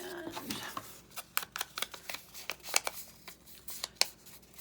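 Ink pad dabbed and rubbed along the edges of paper pieces to ink them, a run of quick, irregular taps and clicks.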